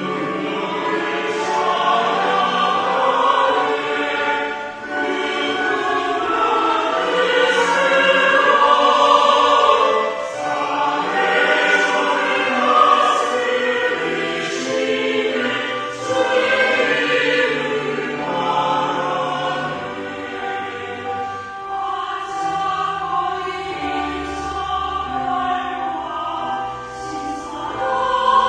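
Church choir singing a hymn in parts, with steady low held notes of an accompaniment beneath the voices.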